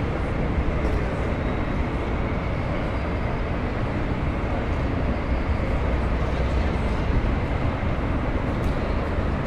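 Steady low rumble of a train at a station platform, with a faint high whine above it.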